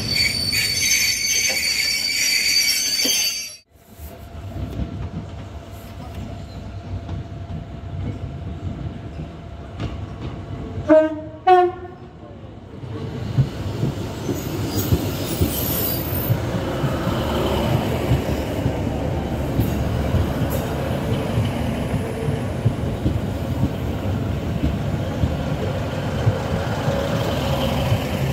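Charter train coaches running past with high wheel squeal, cut off suddenly about three and a half seconds in. About eleven seconds in a two-tone train horn gives two short blasts, then a Northern Class 156 diesel multiple unit comes in, its engine and wheels giving a steady low rumble that builds as it passes.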